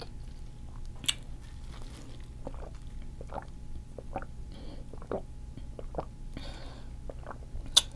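Close-up chewing and wet mouth smacks of a person eating seafood, with scattered small clicks and a couple of sharper ones about a second in and near the end.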